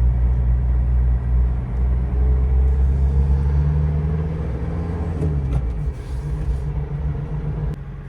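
A van's engine heard from inside the cab, moving slowly in stop-and-go traffic. The engine note rises about halfway through as it speeds up, then drops back a couple of seconds later.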